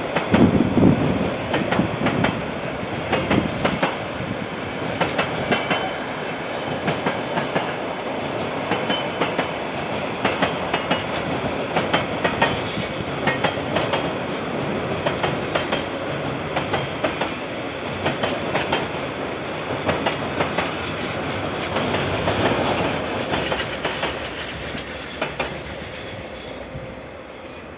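KiwiRail freight train's container wagons rolling past, the wheels clicking over rail joints in an uneven clickety-clack over a steady rumble. The sound fades over the last few seconds as the end of the train goes by.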